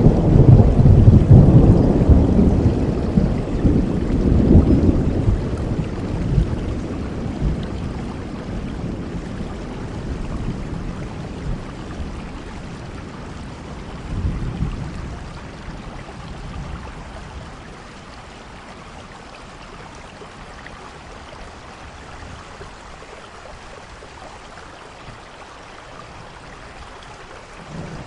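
Thunderstorm: rolling thunder over steady rain. A long, loud low rumble in the first few seconds slowly dies away, a shorter rumble comes about fourteen seconds in, then rain alone until a new rumble starts at the very end.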